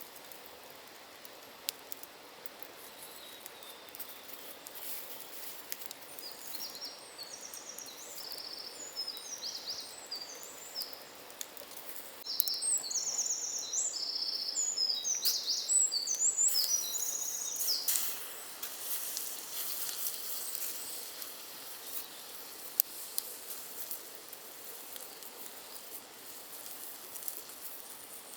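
A small songbird singing a run of short, repeated phrases from about five seconds in until around seventeen seconds, over forest ambience with scattered light clicks and rustling.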